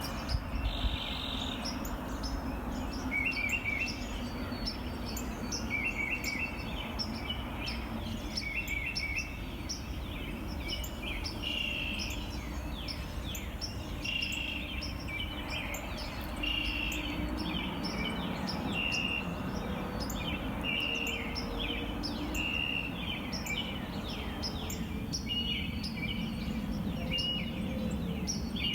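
Dawn chorus: many songbirds singing at once, a dense run of overlapping chirps and repeated song phrases, recorded on a phone over a steady low background rumble.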